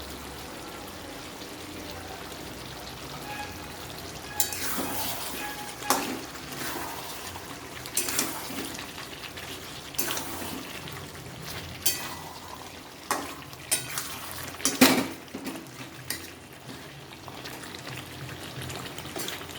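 Chicken with potatoes sizzling in a pan on the stove. From about four seconds in, a spoon stirs it and scrapes against the pan roughly every one to two seconds, loudest near fifteen seconds in.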